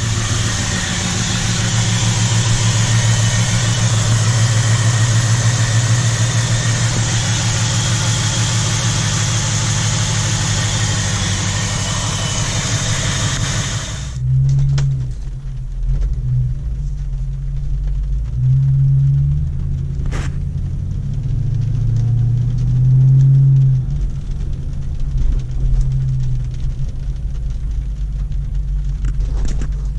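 Jeep Grand Cherokee WJ 4.7-litre V8 running, on its first run after the fuel injectors were reinstalled. A steady low engine hum carries a hiss that cuts off suddenly about halfway through. After that the engine note rises and falls unevenly.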